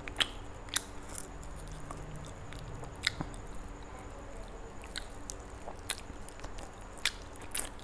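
A person chewing roast chicken, quietly, with a handful of short, sharp wet clicks and smacks scattered through.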